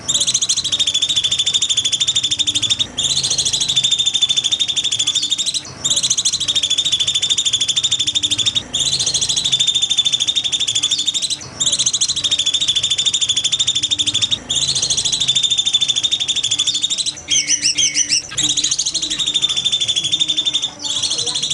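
A songbird's rapid, high-pitched trill, repeated in phrases about two and a half seconds long with short breaks between them. Near the end, a few quick falling whistled notes come between two phrases.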